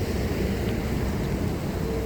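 Steady rushing noise of a rain-swollen river's flowing water, with a low rumble of wind on the microphone.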